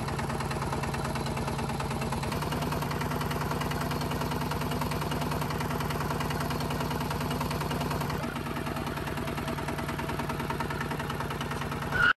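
Small engine running steadily with a fast, even pulse, its pitch shifting slightly twice.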